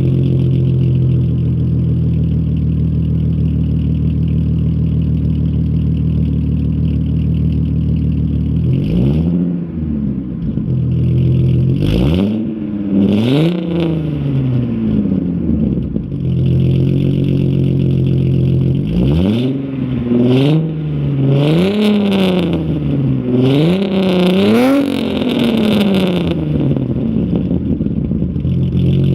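Audi 80 2.8 V6 through a 2.5-inch straight-through exhaust, idling steadily and then revved in a series of short throttle blips, each rising and falling in pitch, before settling back to idle near the end.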